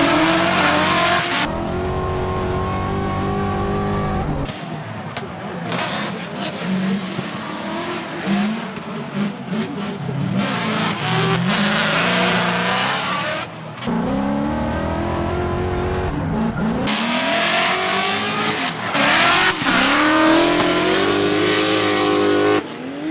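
Supercharged Ford Mustang drift car's engine revving up and down hard through a drift, with tyre squeal. The sound changes abruptly several times, as the footage cuts between shots.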